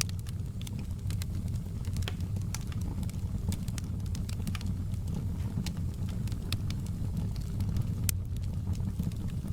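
Wood fire in a fireplace crackling, with irregular sharp pops of burning wood over a steady low rumble. One louder pop comes about eight seconds in.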